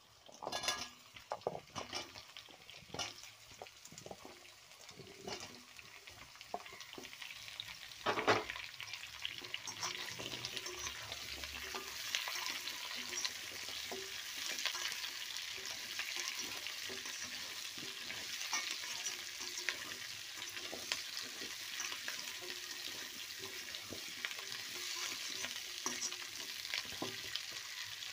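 Cubes of yellow pumpkin dropping into hot oil in a kadai with onions and dried chillies, then frying with a steady sizzle that grows louder over the first ten seconds, while a metal slotted spoon scrapes and taps the pan as it stirs. A sharp knock of the spoon comes about eight seconds in.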